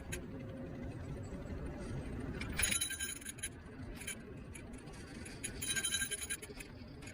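Electric scooter riding noise: a steady low rumble of road and wind, broken twice, about two and a half seconds in and again around six seconds, by short bursts of metallic jingling rattle.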